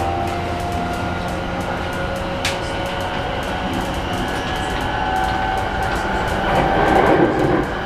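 JR E233 series 1000-subseries electric train running, heard from inside the car: steady whine from its Mitsubishi IGBT-VVVF inverter and traction motors over the rumble of the running gear, with wheels clicking over rail joints. It grows louder and rougher near the end.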